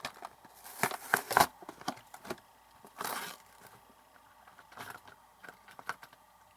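A toy train's packaging being opened by hand: irregular crinkling, rustling and sharp clicks, loudest about a second in, with a short tearing rasp around three seconds and lighter clicks after.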